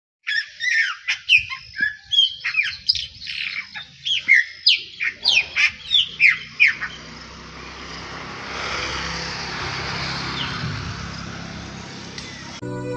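Birds calling loudly: a rapid string of short squawks and chirps that sweep down in pitch, for about the first seven seconds. After that comes a steady rushing noise with a low hum.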